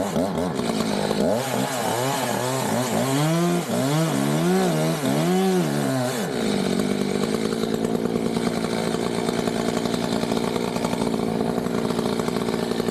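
Two-stroke chainsaw running at high speed, its pitch rising and falling over the first six seconds as it works, then holding a steady high note for the rest.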